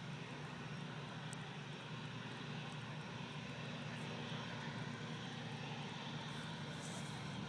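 Airbus A319 airliner's jet engines running, a steady rush that grows slightly louder over the seconds.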